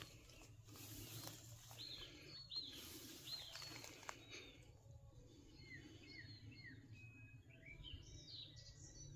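Faint birdsong: short, falling chirps, a few at first and then many in quick succession through the second half. Rustling in the first few seconds.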